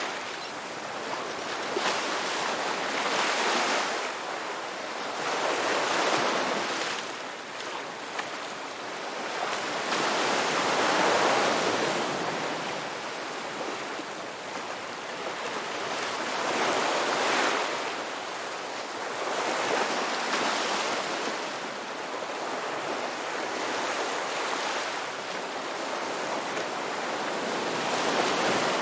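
Ocean waves breaking and washing up a beach, surging louder every three to six seconds and easing back between swells.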